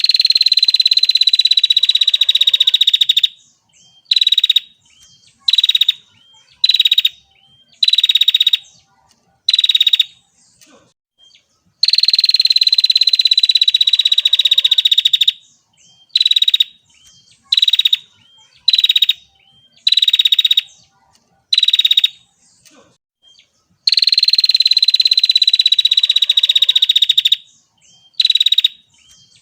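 Female prinia (prenjak) calling: a long, rapid buzzing trill that slides slightly down in pitch, followed by a run of short buzzy bursts, each ending in a quick downward note. The sequence repeats about every twelve seconds. It is the female's call, used to train caged songbirds or to lure prinias in.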